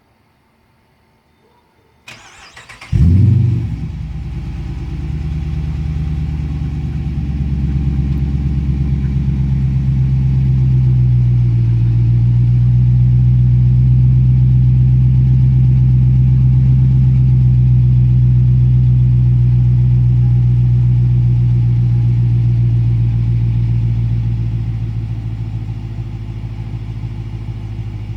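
2016 Dodge Charger R/T's 5.7-litre Hemi V8 cranking briefly, then catching with a loud flare and settling into a steady idle through Borla Pro XS mufflers, with an X-pipe in place of the resonators. The idle eases down a little near the end.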